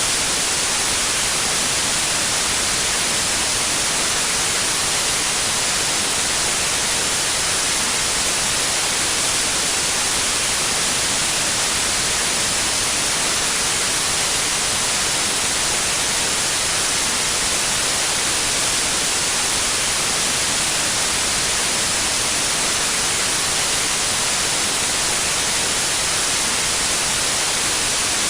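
Steady white noise: an even hiss, brightest in the treble, that does not change.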